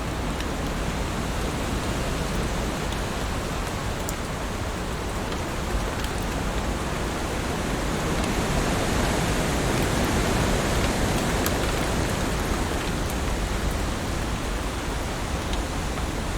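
Heavy rain falling steadily, a dense hiss with scattered sharp drop ticks, swelling slightly louder in the middle.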